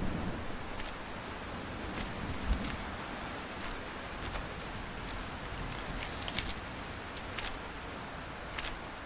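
Steady rain, with a few scattered sharp clicks.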